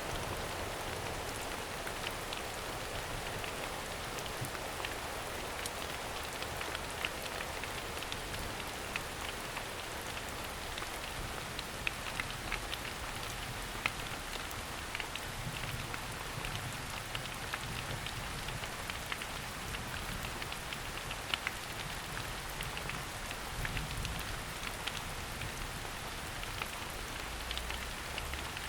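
Steady rain falling on forest foliage, with many individual drops ticking close by.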